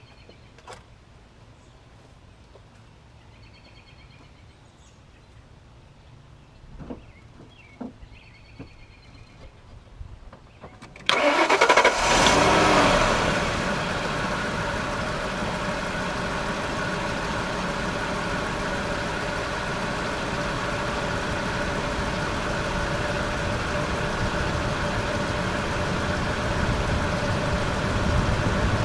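1997 Ford F-150 engine started about eleven seconds in: a short burst of cranking and a brief rev as it catches, then a steady idle. Before that, only a few faint knocks.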